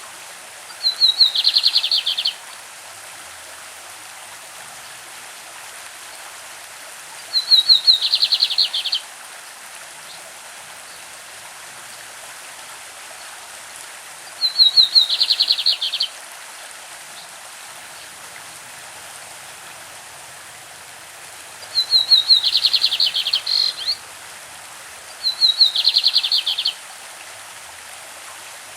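Lined seedeater (bigodinho) singing its classic song five times, each phrase about a second and a half long: a few clear high notes that run straight into a fast, buzzy trill. A stream runs steadily underneath.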